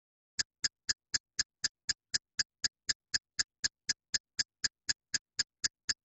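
A sound effect of identical short ticks repeating evenly at about four a second, starting out of silence about half a second in.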